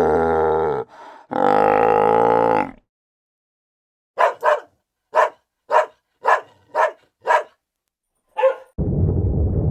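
Two long, drawn-out farm-animal calls, then after a pause a run of about eight short barks from a dog, roughly half a second apart. A low rumbling noise starts just before the end.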